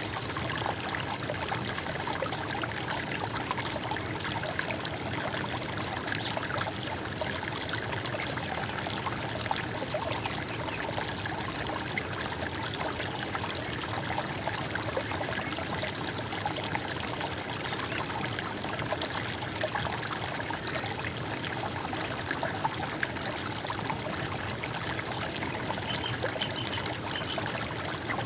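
Stream water running and gurgling steadily, a continuous even rush.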